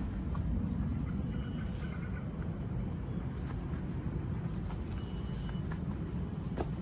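Outdoor ambience: a steady low rumble with a thin, steady high insect drone over it and a couple of brief faint high chirps.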